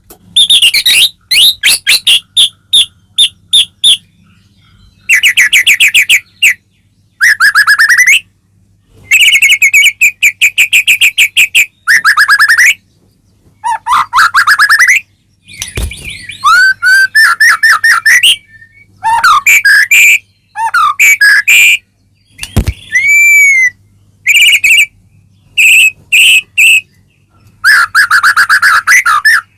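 White-rumped shama (murai batu) singing loudly in short bursts of rapid repeated notes, trills and whistled glides, with brief pauses between phrases. Two sharp knocks come about halfway through and again a few seconds later.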